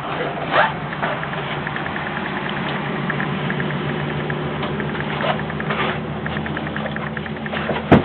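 A motor running steadily with a low, even hum, with a few short knocks or sounds over it and a sharp click near the end.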